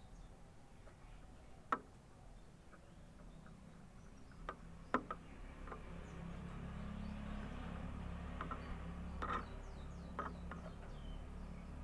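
Canary in its cage, quiet between songs: a scatter of sharp single clicks and taps with a few faint, very high, short chirps. A low hum comes up about halfway through.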